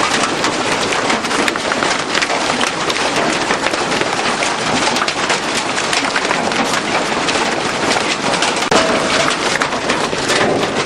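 Hailstorm: hailstones bigger than marbles pelting down hard, a dense, steady clatter of many sharp impacts over a constant hiss.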